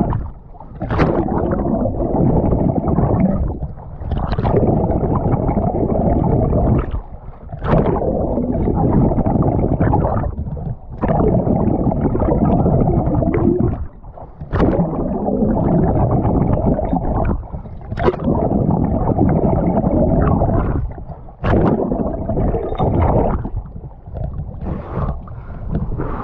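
Muffled rush and slosh of water from open-water swimming close to the microphone, in a regular cycle about every three and a half seconds. Each cycle breaks off briefly and opens with a short, sharp splash.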